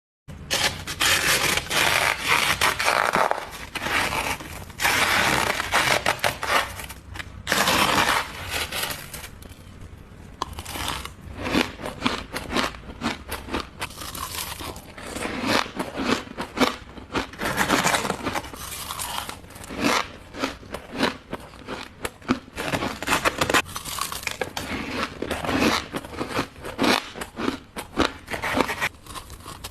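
Close-miked bites into ice, crunching and squeaking against the teeth. Long grinding, scraping bites come first, then a run of many short, sharp crunches.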